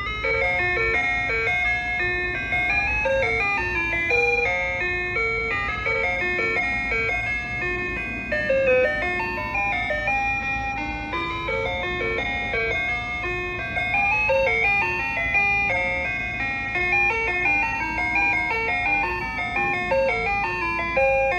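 Soft-serve ice cream truck's chime tune playing over its loudspeaker: a bright electronic melody of short plinking notes that loops, over a steady low rumble.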